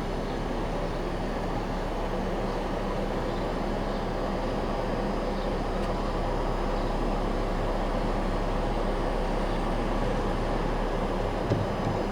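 Steady mechanical running noise with a low hum that does not change.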